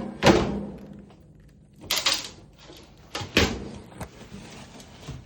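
Three clattering knocks about a second and a half apart as a clothes dryer's metal door and cabinet are handled.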